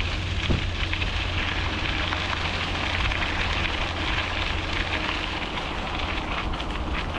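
Bicycle tyres rolling over fine pea gravel on an oiled trail surface, a steady crackle, with wind rumbling on the microphone.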